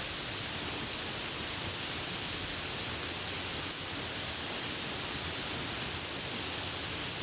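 Steady heavy rain falling, an even hiss with no thunder and no let-up.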